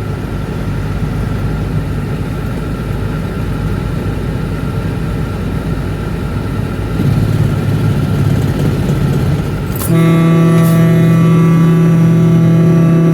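Highway traffic going by, a steady rumble of tyres and engines. About ten seconds in it switches abruptly to a loud, steady, pitched drone.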